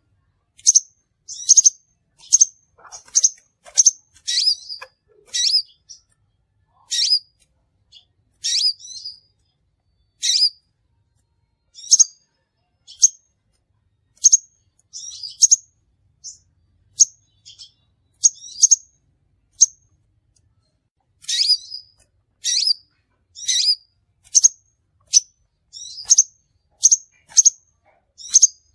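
Crimson sunbird calling: a series of short, sharp, high-pitched chirps, some single and some in quick clusters, with brief silent pauses between.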